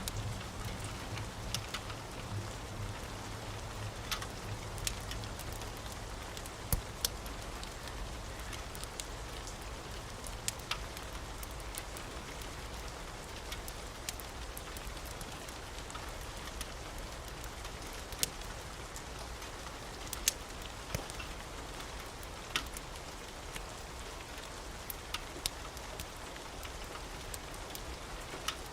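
Steady rain with a crackling wood fire: scattered sharp pops at irregular times over an even hiss. A low rumble of thunder fades out in the first couple of seconds.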